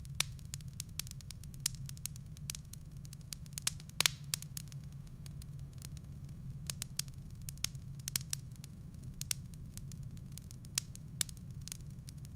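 Firewood burning in a fireplace: irregular sharp crackles and pops from the logs over a steady low rumble of the fire, with one louder pop about four seconds in.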